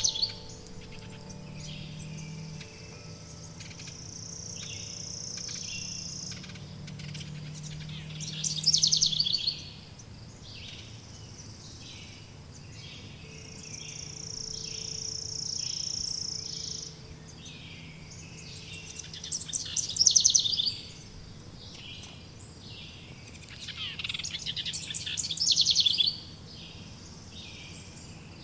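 Forest songbirds singing: loud, fast trilled phrases come every few seconds, with a steady high buzz held for about three seconds twice and faint high chirping throughout.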